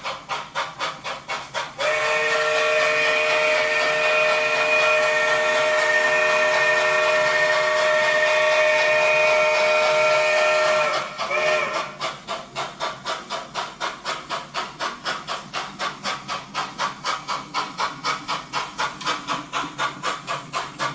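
Sound-equipped model steam locomotive, a consolidation, playing a steady rhythmic chuff from its sound decoder. About two seconds in it sounds a long chime whistle of several tones, held for about nine seconds.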